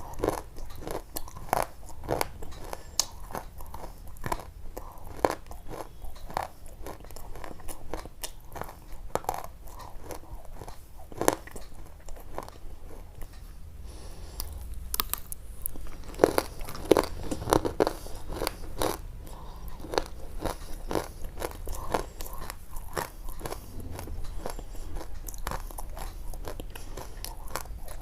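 Close, crisp crunching: a dense run of irregular sharp clicks and cracks that thickens for a few seconds past the middle, over a steady low hum.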